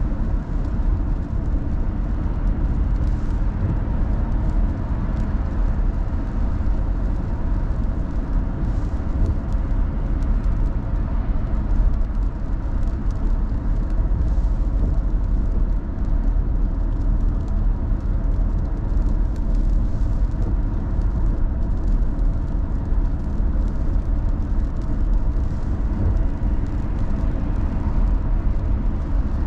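Car driving at a steady pace: continuous low road and engine noise with no changes in pace.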